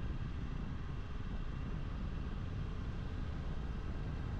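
Steady riding noise from a Kawasaki Ninja 400 on the move: wind rush and a low rumble, with the bike's parallel-twin engine running.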